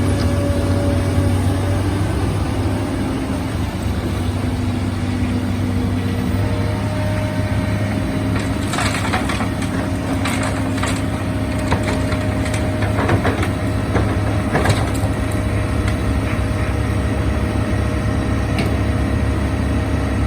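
Heavy machine's engine running steadily with a steady whine above it, while soil and stones crunch and clatter in irregular sharp cracks from about 8 to 15 seconds in, as in filling large sandbags.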